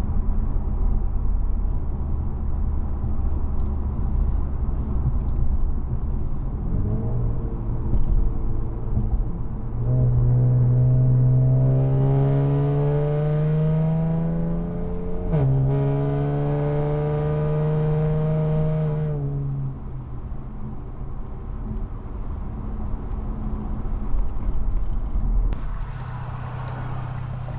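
Twin-turbo VR30 3.0-litre V6 exhaust with lower downpipes and a 2.5-inch AFE catback, heard from inside the cabin. It drones at steady cruise, then accelerates hard about ten seconds in with a rising note. The note drops sharply at a quick upshift and climbs again before the throttle comes off, easing back to a low drone. The owner finds the note tin-can-like.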